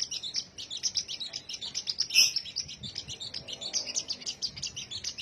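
A sogon songbird twittering: a fast, unbroken run of short high chirps, several a second, with a louder burst about two seconds in.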